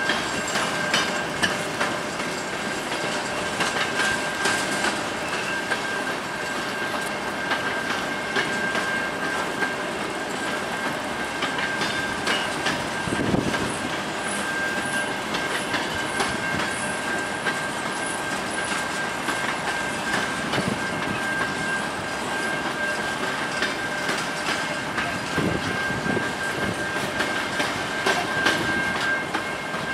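Grain train's covered hopper cars rolling past, wheels clacking irregularly over the rail joints, with a steady high-pitched squeal over the rumble.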